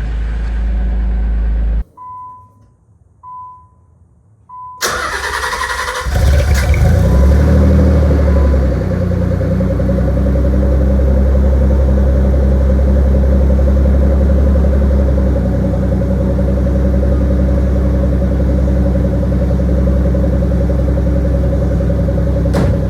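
Nissan 300ZX (Z32) 3.0 V6 engine running, then cutting off suddenly. Three short electronic chime beeps follow. The starter cranks and the engine catches about six seconds in, revs up briefly, then settles into a steady idle.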